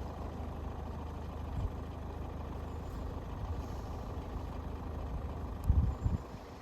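A steady low engine rumble, like a road vehicle idling, with a couple of brief low thumps.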